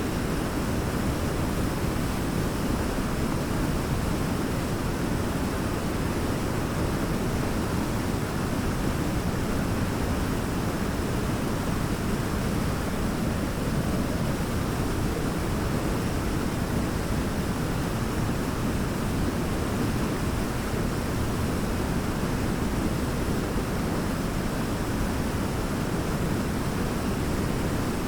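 A large waterfall: a steady, deep rush of falling water with no change.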